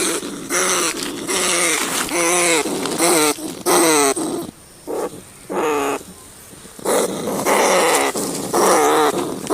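Rat giving a rapid series of short, wavering squealing calls, about one or two a second, with a pause a little past the middle.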